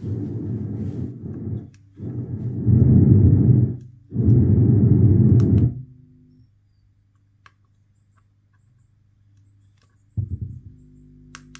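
Home theatre system's speakers in radio mode putting out three loud blasts of low, rumbling noise, each a second or two long. A faint steady hum follows, and a shorter burst comes near the end.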